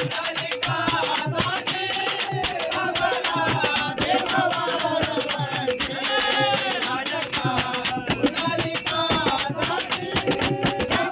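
Devotional bhajan music: a melodic line that bends in pitch over dense, fast percussion with jingling, rattle-like strokes.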